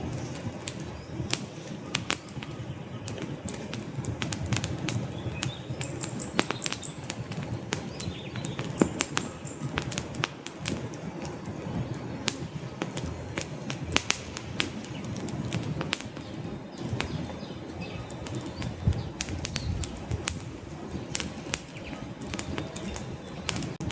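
Wood fire burning in a fireplace: logs crackling with frequent sharp, irregular pops and snaps over a low steady rumble of the flames.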